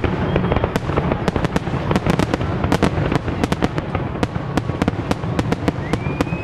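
Aerial fireworks going off in a dense barrage: sharp bangs and crackles several times a second over a continuous low rumble.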